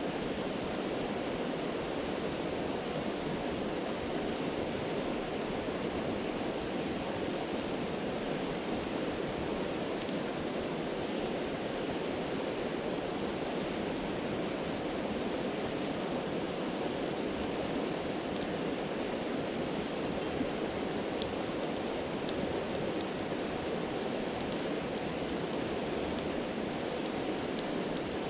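Steady rushing of a stream, with a few faint crackles of a campfire popping through now and then.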